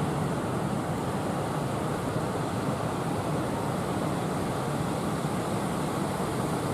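Heavy sea surf breaking and churning, a steady rushing noise.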